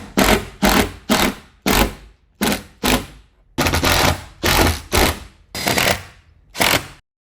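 A power tool run in quick short bursts, about two a second, each burst sharp and loud; it stops suddenly near the end.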